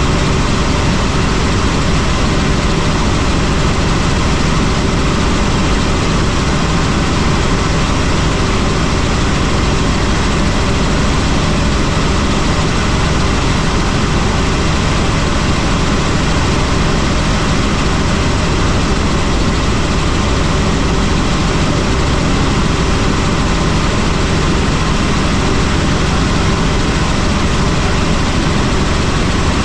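Helicopter in flight: steady, loud engine and rotor noise that does not change.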